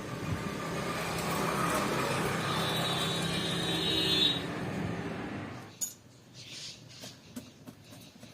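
A motor-driven workshop machine running steadily with a whine, then cutting off about six seconds in, followed by a few light metallic clinks.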